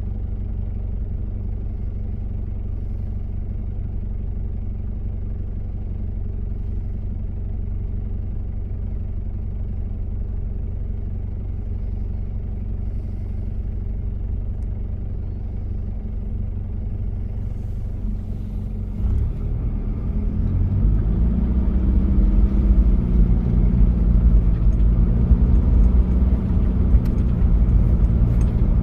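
Diesel engine of a 1993 Toyota Prado running steadily at low revs, then, about two-thirds of the way through, revving up and running louder with rising, wavering pitch as the vehicle accelerates.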